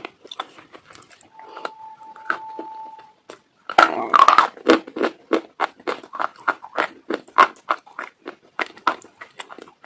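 Dog chewing crunchy food close to the microphone: sharp crunching bites about three to four a second, with a dense burst of loud crunching about four seconds in. A thin steady high tone sounds for about two seconds near the start.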